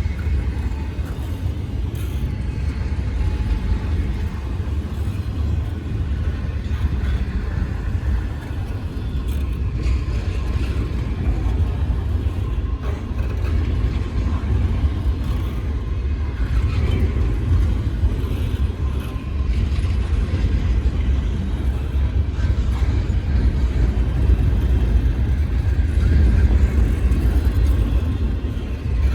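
Long freight train rolling past, a steady low rumble of the cars going by.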